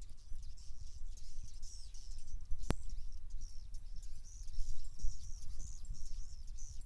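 Small birds chirping repeatedly over a steady low rumble, with one sharp click near the middle.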